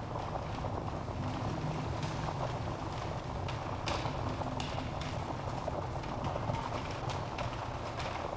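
Wood fire burning in a fireplace: a steady low rush of flame with irregular sharp pops and crackles from the logs.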